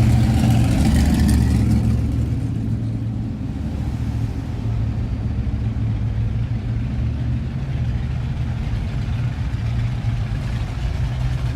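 Classic cars cruising past on a street, their engines running with a low drone; one engine is louder in the first couple of seconds, then the sound settles to a steadier drone of passing traffic.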